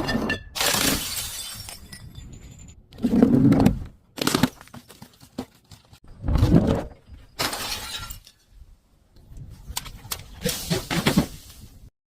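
Glass bottles smashing and crunching, a series of about six separate crashes with shards crackling between them.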